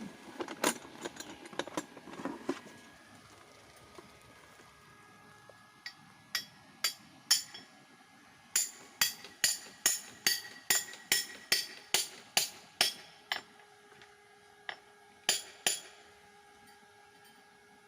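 Hammer blows driving climbing pegs into a tree trunk: a few scattered knocks, then a steady run of sharp, clinking strikes at about three a second for some seven seconds, and two last strikes a little later.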